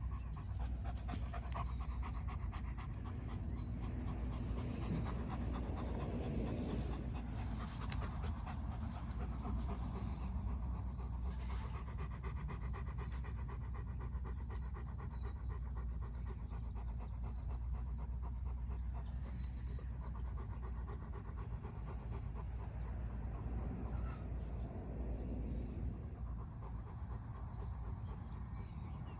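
A dog panting steadily, in quick, even breaths, with faint high chirps in the background.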